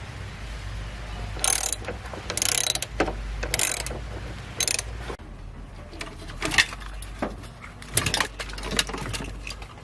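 Mechanical tool work: four short noisy bursts about a second apart, then scattered clicks and knocks.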